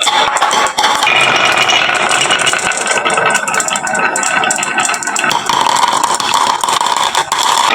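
Many glass marbles clattering continuously down a wooden marble run, a dense, steady rattle of small clicks.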